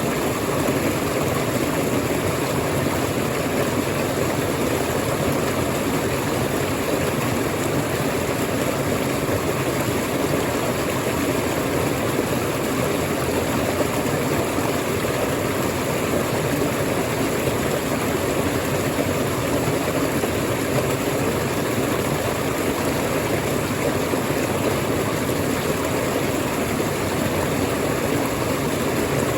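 Waterfall: water falling and splashing in a steady, unbroken rush, strongest in the low-middle range, with no change in level.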